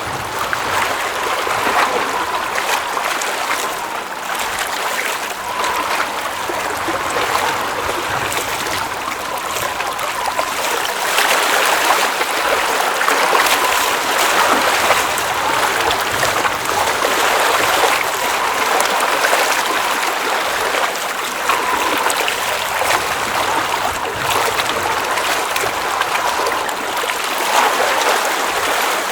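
Water at a mountain lake flowing and trickling steadily, with small splashes throughout.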